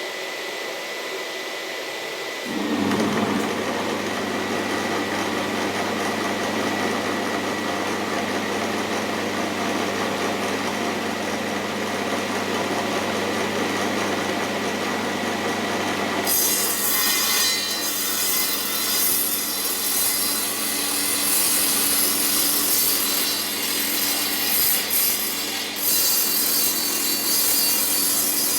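Restored old table saw running: its motor and blade give a steady hum that steps up in level about two and a half seconds in. A little past halfway the blade starts cutting wood, adding a rough, hissing sawing noise over the hum.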